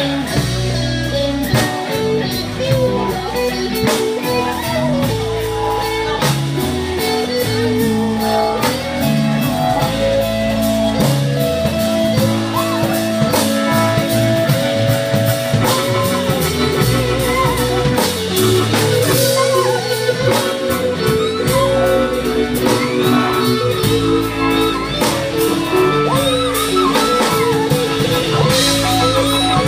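Blues band playing a slow instrumental intro: lead guitar with bent, sliding notes over drums and a bass line.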